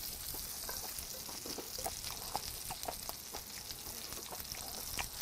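Beef makchang and other offal sizzling in oil in a frying pan over a charcoal grill, a steady high hiss with scattered small pops. Metal tongs stirring the pieces add light clicks.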